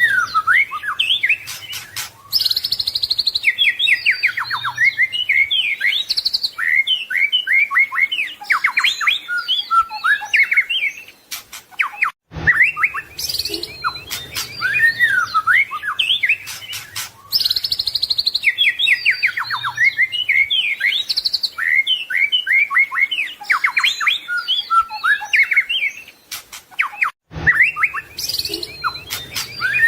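White-rumped shama (murai batu) singing a fast, varied song of chirps, trills and whistled glides full of mimicked phrases from other birds. It is a looped recording: the same passage breaks off briefly and starts again about every 15 seconds.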